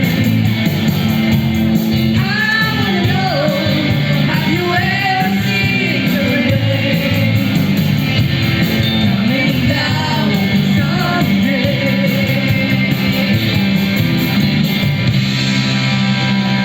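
Rock band playing with a lead singer over guitar accompaniment; the singing sits mostly in the first two-thirds, with the instruments carrying on after it.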